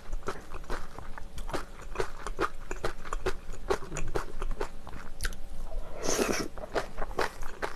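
Close-miked wet chewing of spicy bibim noodles, full of quick mouth clicks and smacks. About six seconds in, a brief louder slurp as another chopstickful of noodles goes into the mouth.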